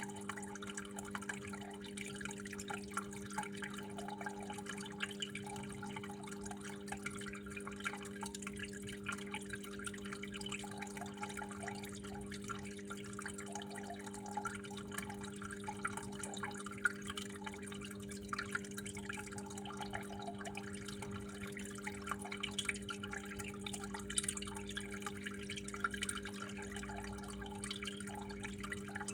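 Water trickling and dripping steadily, with small irregular splashes, over a steady low hum.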